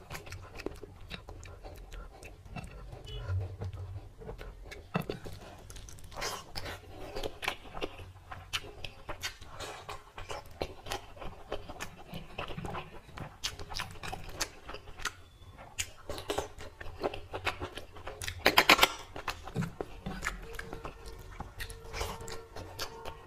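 Close-up eating sounds: fingers squelching rice and curry together on a plate, and wet chewing and lip-smacking of mutton and rice. A steady run of short clicks and smacks, with a louder burst about three-quarters through.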